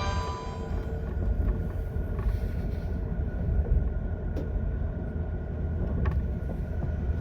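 Interior running noise of a JR 185 series electric multiple unit in motion: a steady low rumble from the train running on the rails, with a faint steady high tone and a couple of faint clicks. The last note of the onboard chime fades out in the first second.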